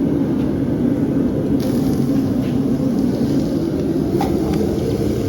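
Forge running with a steady low roar, with a few faint light taps over it.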